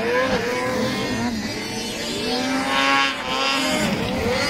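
Several snowmobile engines revving up and easing off during a race, their pitches rising and falling and overlapping.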